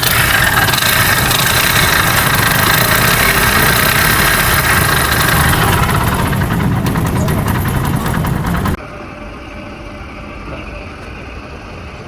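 An engine running steadily. About nine seconds in, the sound drops suddenly to a much quieter steady hum.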